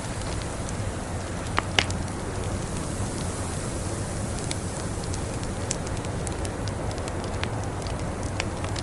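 Wood fire crackling, with scattered sharp pops and two louder ones about a second and a half in, over a steady rushing background hiss.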